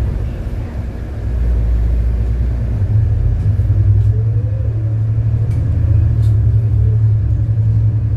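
City bus under way: a steady low engine and road rumble that grows from about three seconds in, with a faint whine rising and then falling in pitch in the middle, and a few light rattling clicks.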